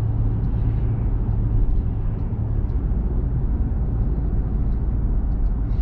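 Steady low rumble of a small truck being driven, engine and road noise heard from inside the cab.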